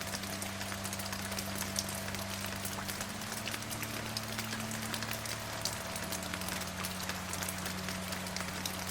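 Steady rain, with many individual drops ticking sharply against a constant hiss. A low, steady hum runs underneath and shifts slightly in pitch a few times.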